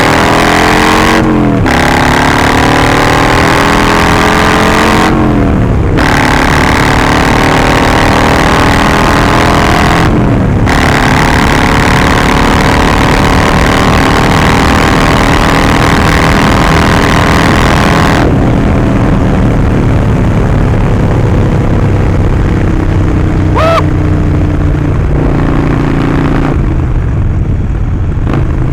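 Harley-Davidson Sportster Forty-Eight's 1200 cc V-twin running through a Vance & Hines slip-on exhaust, accelerating through the gears. The pitch climbs and drops sharply at three upshifts in the first ten seconds, then the engine eases off after about eighteen seconds and runs lower and steadier.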